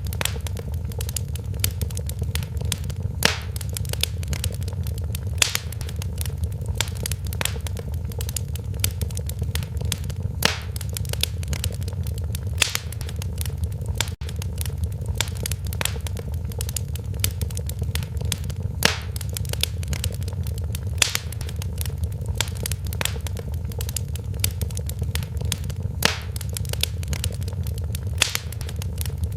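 Wood fire crackling in a fireplace: irregular sharp pops and snaps, many a second with some louder ones standing out, over a steady low rumble of the flames.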